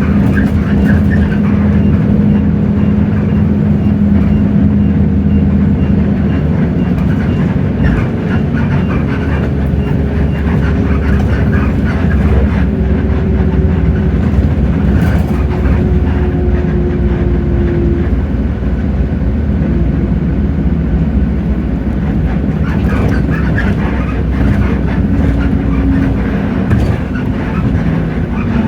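A Hino J08E-VN 7.7-litre inline-six diesel in a city bus, running under way, heard from inside the cabin with steady road noise and rumble. A whine falls slowly in pitch over about ten seconds in the middle as the bus slows or changes its revs.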